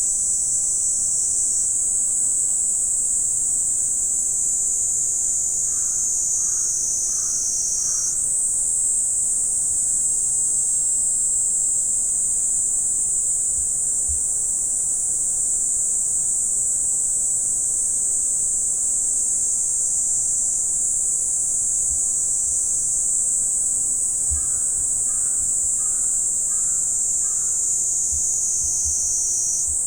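A loud, continuous summer insect chorus, shrill and high, whose pitch slowly sinks and then jumps back up about eight seconds in and again near the end. A bird calls in two short runs of four or five notes.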